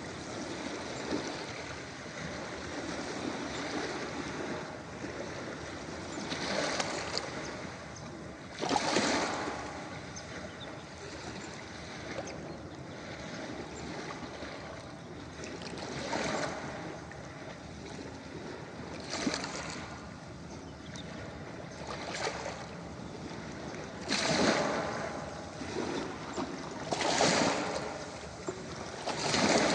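Ocean waves washing onto a beach: a steady rush of surf with louder surges every few seconds as waves break, about eight in all.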